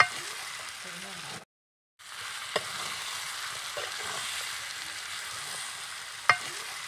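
Mutton curry sizzling in a metal kadai as a metal spatula stirs it, with sharp clicks of the spatula striking the pan: one at the start, one about two and a half seconds in, and one just before the end. The sound cuts out for about half a second roughly a second and a half in.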